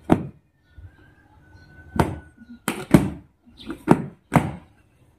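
A series of about seven sharp knocks at uneven intervals, some in quick pairs, in a small room.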